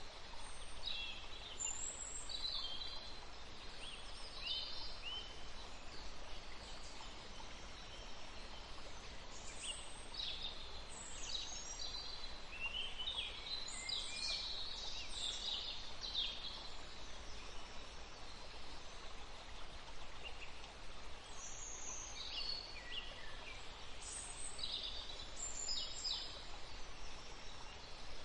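Forest birds chirping and trilling in overlapping bursts of short high calls, coming in clusters with quieter gaps between, over a steady background hiss.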